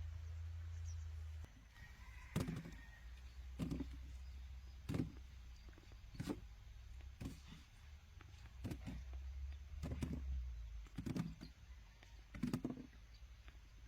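A series of dull thuds, about one every second and a quarter, starting about two seconds in, over a steady low rumble.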